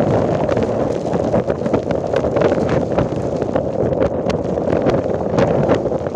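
Wind buffeting the microphone of a moving motorcycle, a steady rumbling rush with scattered sharp ticks throughout.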